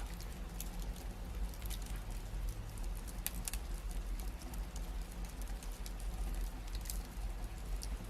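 Wood fire burning in a fireplace, crackling with scattered sharp pops and snaps over a steady low rumble.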